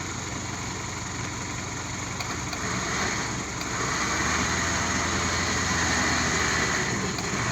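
Truck engine running, growing louder from about two and a half seconds in and holding there as it works under load to pull the truck along the wrecked track.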